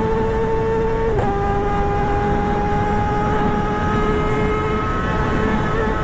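A motor vehicle engine running at steady revs as a constant high-pitched hum. Its pitch dips slightly about a second in, then holds steady again.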